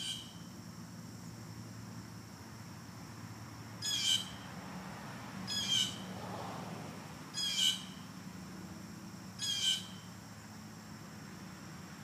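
A bird calling: five short calls, one at the start and then four about every two seconds from about four seconds in.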